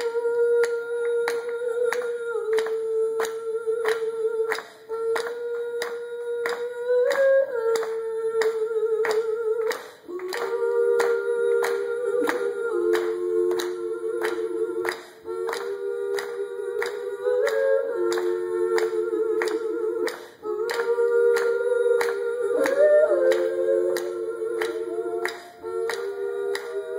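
A woman's wordless sung notes, each held for several seconds and building into two- and three-part harmony, over a steady sharp click beat of about two a second.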